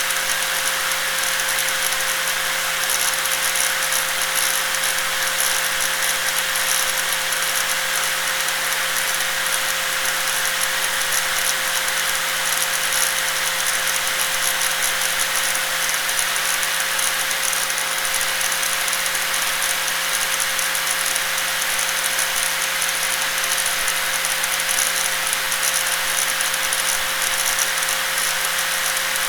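Electric angle grinder running steadily at constant speed: a loud, even high-pitched whine and hiss with a steady hum beneath, unchanging throughout.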